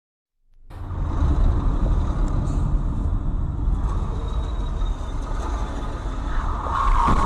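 Low, steady rumble of a moving road vehicle, starting abruptly about half a second in, with sharper knocks near the end.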